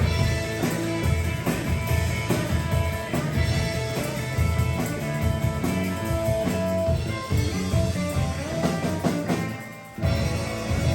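Rock music with guitar and drum kit playing a steady beat; it drops away briefly about ten seconds in, then comes back.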